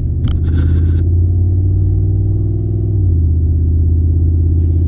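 Ford 5.0 V8 of a 2015 F-150 pulling under light acceleration while driving. Its note rises slowly, then drops about three seconds in as the automatic transmission upshifts. A few light rattles come in the first second.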